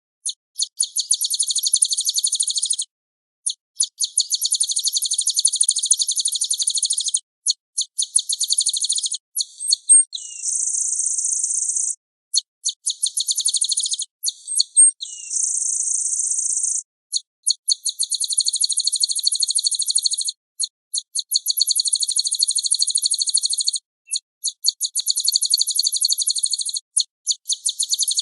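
Small songbird singing long, very fast trills of high repeated notes, each run a few seconds long with short breaks between. Twice near the middle the song becomes a steady buzzing trill. The recording is clean and has no background noise, as on a bird-training master track.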